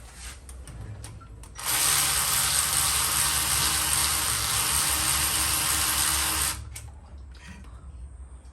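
A handheld power drill or driver running steadily for about five seconds, starting and stopping abruptly, as a bolt is run out during water pump removal.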